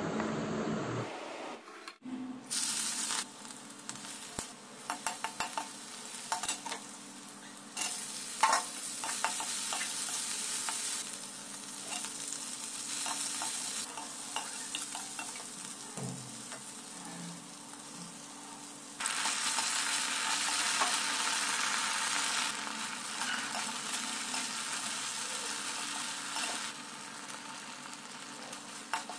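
Briefly, a spoon stirring a cornflour slurry in a bowl. Then chopped onions and green chillies sizzling in hot oil in a pan, stirred with a metal slotted spoon that clicks and scrapes against the pan. The sizzle gets louder about two-thirds of the way in.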